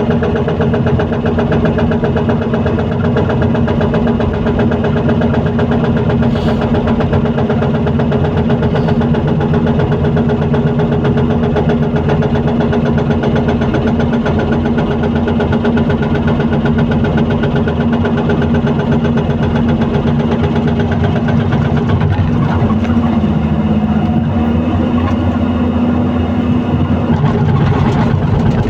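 Excavator's diesel engine running steadily under load, its tone shifting slightly about twenty-two seconds in.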